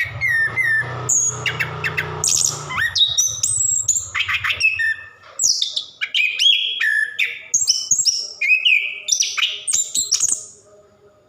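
Orange-headed thrush singing a long, varied song of quick whistled phrases, rapid notes and pitch glides, stopping shortly before the end. A low hum runs under the first half.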